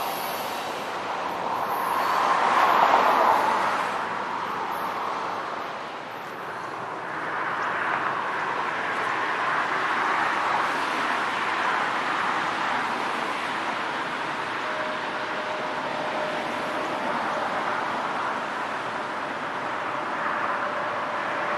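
Steady rolling noise of a freight train passing, with no engine or horn standing out. A faint, thin steady squeal joins in about two-thirds of the way through.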